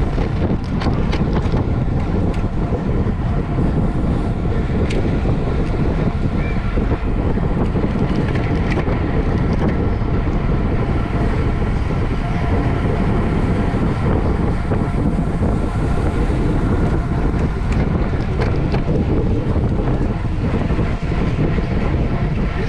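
Steady wind rush buffeting the microphone, with a dense low rumble, as from a camera moving at speed on a bicycle in a race.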